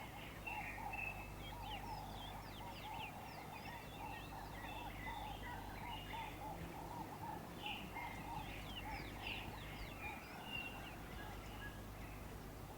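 Several birds calling at once: quick high chirps and sweeping notes over a steady string of lower notes repeated two or three times a second, the lower string fading out near the end.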